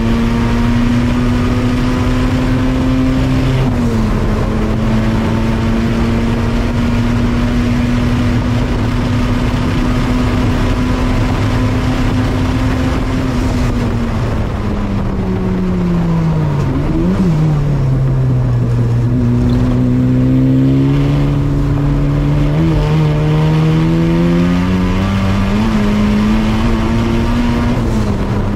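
Turbocharged Honda K24Z3 four-cylinder swapped into a 1994 Mazda Miata, heard from inside the cabin at racing pace. The engine holds one high note through a quick upshift about four seconds in. Its pitch then falls as the car slows for a corner, with one brief flare in revs near the bottom, and climbs steadily again as the car accelerates away.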